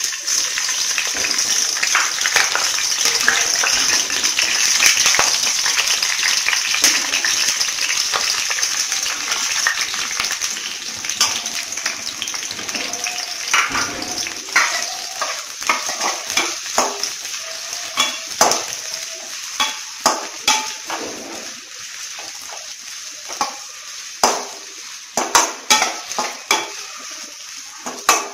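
Green chilies dropped into hot oil in a metal kadai: a loud sizzle starts at once and slowly dies down. Later the chilies and sliced onions fry more quietly while a steel slotted spatula stirs them, clinking and scraping against the pan in quick strokes.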